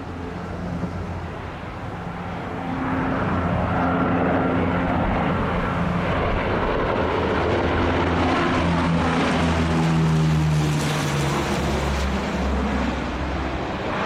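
E-2C Hawkeye's twin turboprop engines droning with a low propeller hum as the aircraft comes in to land. The sound swells about two or three seconds in, stays loud, and is loudest about ten seconds in.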